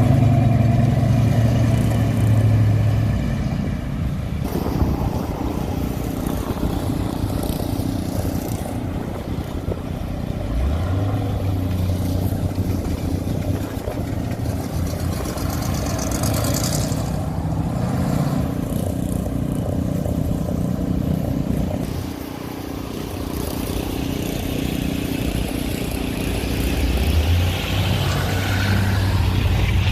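Several hot rods and show cars driving past one after another, their engines running and revving as they pull away, the low engine note rising as each one accelerates.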